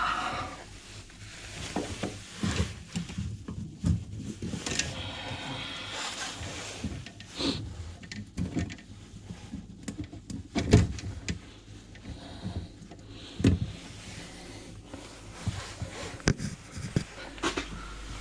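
Sink waste trap and pipe fittings being handled and fitted back together: irregular knocks, clicks and rubbing, with the loudest knock about eleven seconds in.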